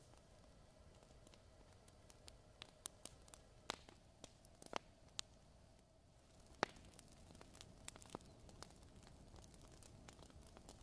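Faint fireplace fire crackling: scattered sharp pops and clicks at uneven intervals, the loudest about six and a half seconds in, over a soft hiss and a faint steady hum.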